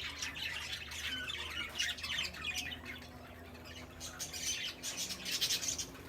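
Many birds calling at once, a dense chatter of overlapping chirps and squawks that thins out briefly in the middle.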